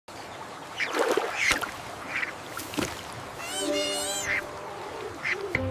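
Ducks quacking in a series of short calls, with one longer, wavering call a little before the end.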